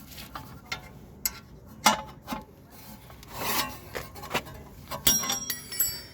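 Rear left wheel hub of a second-generation KIA Soul making an extraneous rubbing and clicking noise after the hub nut has been tightened. Scattered sharp clicks and knocks, a rubbing scrape about three and a half seconds in, and a ringing metal clank about five seconds in.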